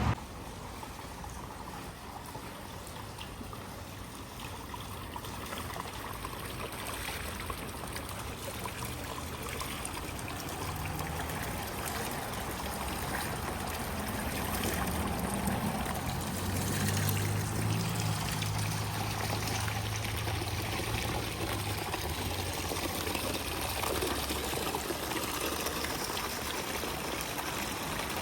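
Decorative waterfall running, water trickling and splashing steadily, with a low hum that rises and fades in the middle.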